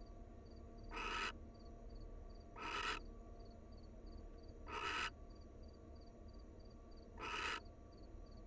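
Barn owl giving short raspy screech calls, four of them, a couple of seconds apart. A cricket chirps faintly and steadily in the background.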